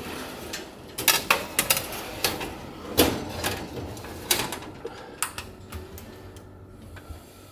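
Kitchen clatter: a run of irregular sharp clicks and light knocks from handling things on the counter, thinning out and getting quieter over the last couple of seconds.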